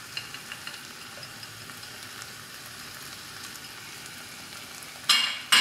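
Chopped onions and tomatoes sizzling steadily in hot oil in a frying pan. About five seconds in, a sudden loud ringing scrape of a utensil against the pan.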